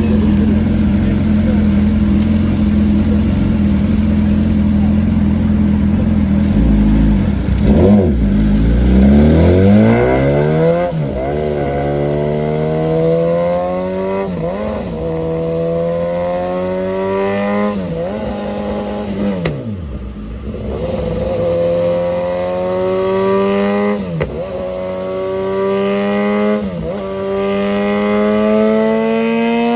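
Car engine accelerating hard up through the gears. It runs at a steady note at first, then the revs climb in long sweeps, each cut by a quick dip at a gear change, about six shifts in all.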